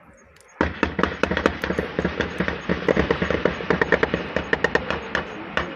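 Sustained gunfire: many sharp shots cracking several times a second and overlapping, starting suddenly about half a second in.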